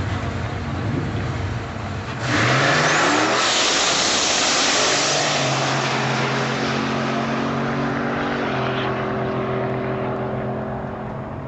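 Turbocharged 347 cubic-inch Ford Mustang V8 running at the drag-strip line, then launching hard about two seconds in and revving up through the gears as it pulls away down the track. It grows fainter near the end as the car gets farther away.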